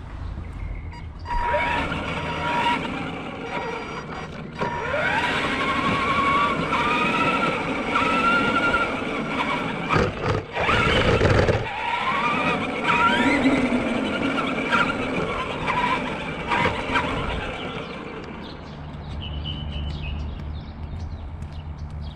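Granite 4x4 radio-controlled monster truck's electric motor whining, its pitch rising and falling as the throttle is worked, with short louder bursts about halfway through.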